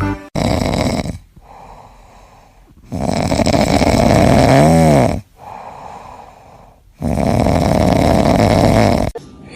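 Loud snoring in a slow cycle: three loud snoring breaths about four seconds apart, each followed by a quieter breath.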